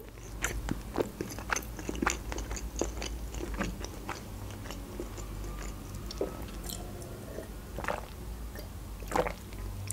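Close-miked chewing of pizza: soft, wet mouth clicks and smacks with the mouth closed. Near the end come a few swallows of juice drunk from a glass.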